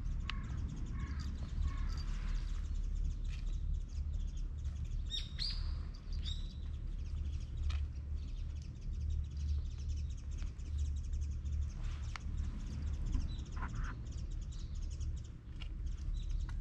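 Small birds chirping and calling, with short repeated chirps near the start and a few higher calls that fall in pitch about five to six seconds in, over a steady low rumble.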